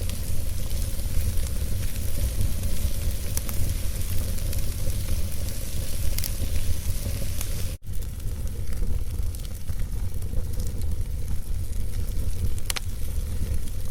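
Wood fire of logs burning in a fireplace: a steady low rumble and hiss with scattered sharp crackles and pops. The sound cuts out for an instant just under eight seconds in.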